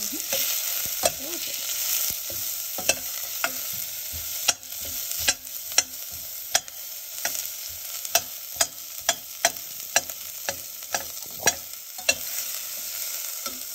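Sliced onions, green chilies and curry leaves sizzling in hot ghee in a stainless steel pot, stirred with a metal spoon that clicks and scrapes against the pot about twice a second.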